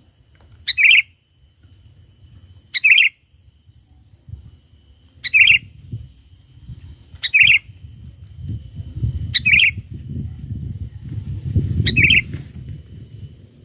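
Sooty-headed bulbul giving six short, loud calls about two seconds apart, used as a lure to call wild bulbuls. A low rumble builds up under the later calls.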